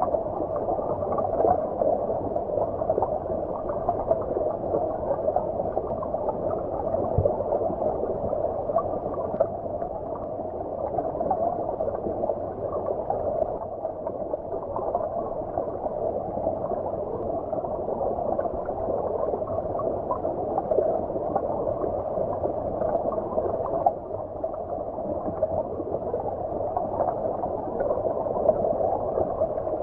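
Stream water flowing, heard as if from underwater: a steady, dull gurgling rush with no bright hiss on top.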